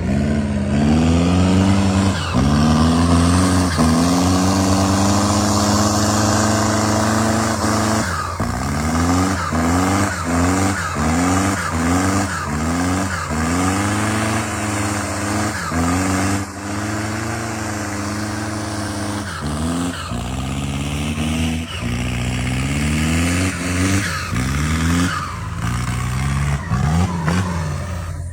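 Off-road truck engine revving hard and repeatedly: the pitch climbs, drops sharply, then climbs again many times over, about once a second in stretches. This is typical of a driver working the throttle through mud or up an obstacle.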